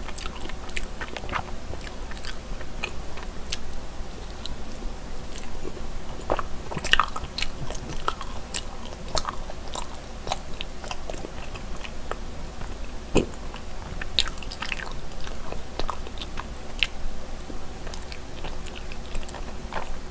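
Close-miked chewing and biting of soft, sticky cream cheese mochi: many small sharp mouth clicks and smacks, scattered irregularly, with no talking.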